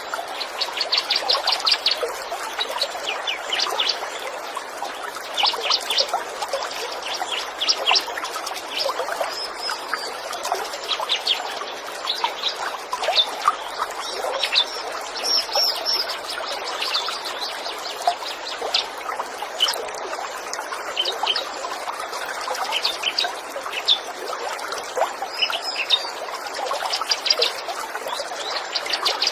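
Small songbirds chirping in quick repeated trills over the steady rush of a running stream.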